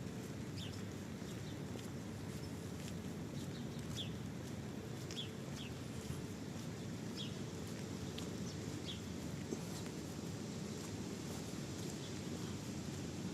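Steady rain falling, with a bird giving short, falling chirps about half a dozen times, scattered through.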